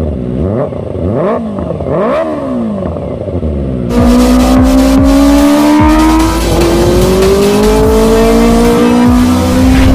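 Kawasaki ZX25R four-cylinder engine through a LeoVince full exhaust system, revved in three quick blips that rise and fall. About four seconds in the sound cuts abruptly to a louder, sustained high-rev run whose pitch climbs slowly.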